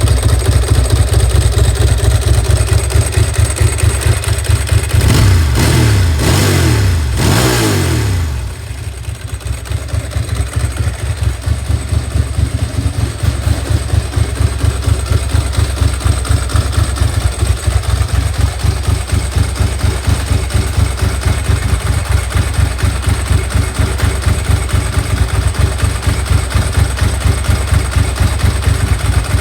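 Ducati SS900's air-cooled 90-degree V-twin engine idling with an even, pulsing beat, revved for a few seconds about five seconds in, the revs rising and falling back, then settling into its idle again.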